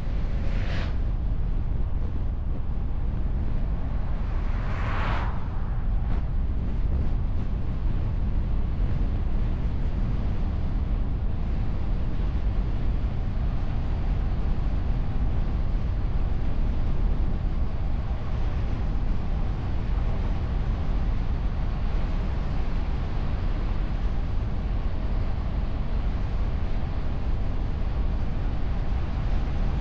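Car driving on the road, heard from outside on the hood through a wind muff: a steady low rumble of road and wind noise. Two brief whooshes stand out, one about a second in and another about five seconds in.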